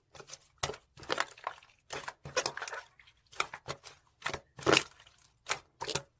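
Slime being played with by hand: a run of irregular short crackling pops.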